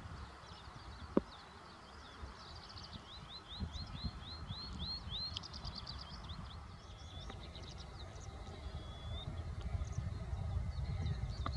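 A bird calling: a run of about nine quick rising high notes, about four a second, then a scatter of sharper, higher notes, over a steady low rumble.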